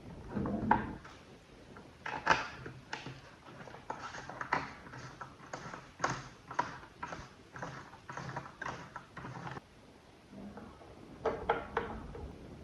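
A run of irregular light clicks and knocks, a few a second, from small hard parts being handled and set down, with a short lull about ten seconds in.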